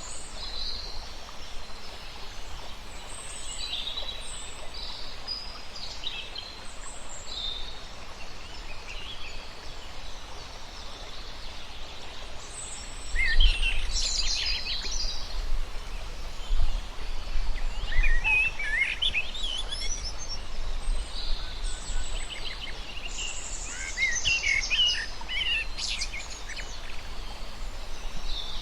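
Many small birds chirping and calling over a steady background hiss. The chirping becomes busier and louder about halfway through, with rapid trills.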